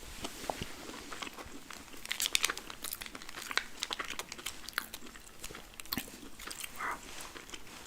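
Close-miked eating of a burger and french fries: crunchy bites and wet chewing, a steady run of crackly clicks with a denser burst of crunching about two seconds in.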